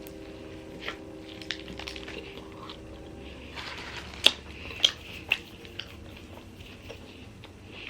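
A person biting and chewing a Philly cheesesteak sub on crusty bread close to the microphone, with several sharp crunches about four to five and a half seconds in. A faint steady hum runs through the first three seconds.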